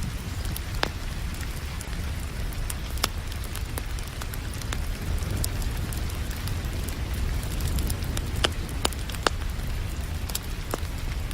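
Wood fire crackling, with a few sharp pops scattered through it, over a steady hiss of rain and a low steady rumble.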